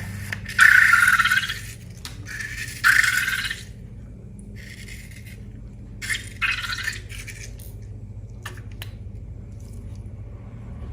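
Slime being handled, with several short squishing bursts and a few faint clicks near the end, over a steady low hum.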